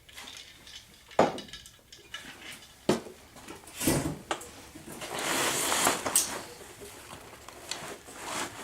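Objects being handled and set down on a work surface: a few sharp knocks and clicks spread through the first four seconds, then a longer rustle midway.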